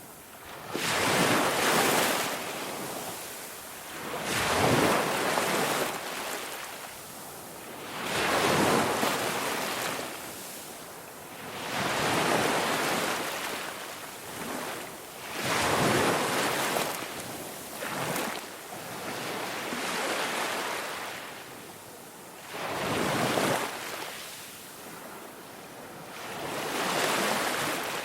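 Ocean waves breaking and washing on a shore, a hiss that swells and fades about every three to four seconds.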